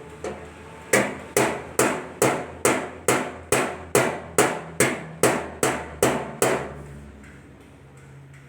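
A hammer striking sheet metal: a steady run of fourteen sharp blows, a little over two a second, each ringing briefly. This is the kind of blow used to make air vents in a car's engine hood.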